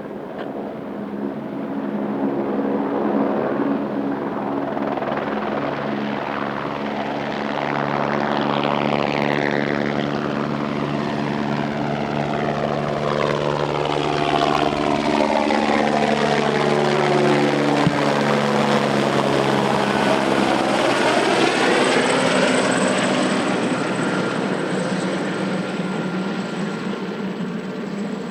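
Airbus AS350B3 single-engine helicopter's rotor and turbine running as it departs and passes close by, a steady low throb with a sweeping tone that falls and then rises in pitch as it goes past. A thin high turbine whine shows near the end.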